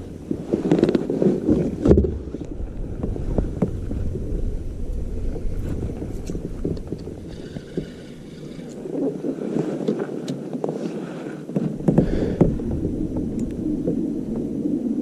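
Water and wind noise around a kayak, with a steady low rumble and scattered small knocks and clicks from handling on the hull.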